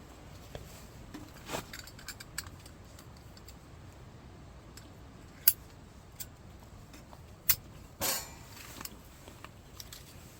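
Scattered sharp clicks and light metallic clinks over a quiet background, with three louder ones in the second half, the last followed by a short rattle.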